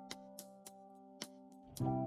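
Background music: a held keyboard chord slowly fading under light ticking percussion, with a new chord struck near the end.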